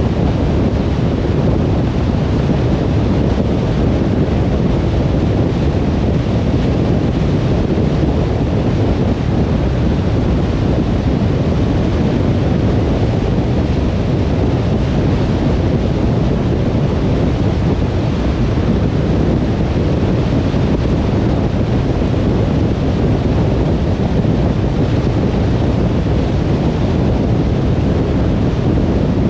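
Steady road noise from a car driving: an even, low-heavy rumble of tyres and wind with no sudden events.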